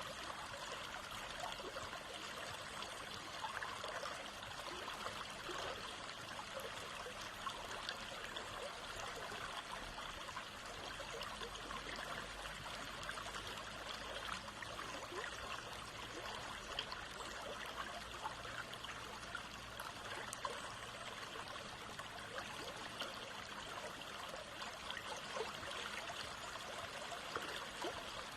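A stream of running water flowing steadily: an even rush with many small splashes and drips.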